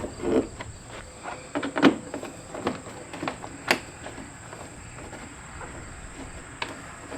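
Scattered sharp clicks and knocks, most of them in the first few seconds, over a steady high-pitched whine.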